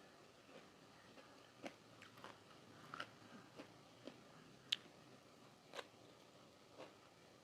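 A person chewing crunchy food close to the microphone: about eight sharp, separate crunches at irregular intervals, the loudest a little after the middle.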